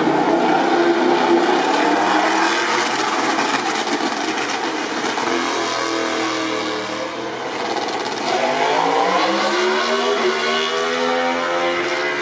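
MotoGP racing motorcycle engines at high revs: the engine note falls over the first several seconds, then climbs again as a bike revs up from about eight seconds in.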